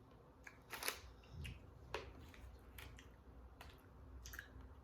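Faint eating sounds: scattered small clicks and crunches of chewing, about eight in a few seconds.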